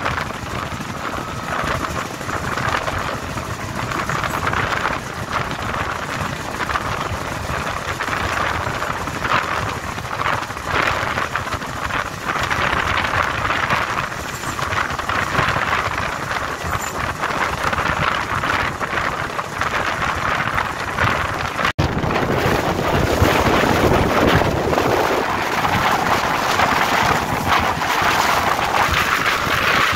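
Diesel-hauled passenger train running at speed: a steady rumble of wheels on the rails with wind noise on the microphone. A brief break about two-thirds of the way through, after which the running noise is louder and fuller.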